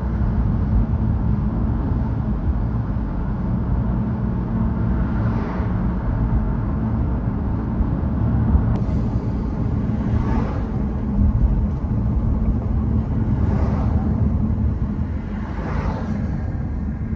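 Car driving: a steady low engine and tyre rumble, with several brief swells of louder noise, about five in all.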